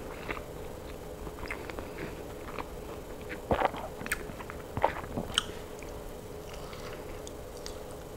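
Close-miked chewing of food, with small wet mouth clicks and smacks, a few louder ones about halfway through, over a faint steady hum.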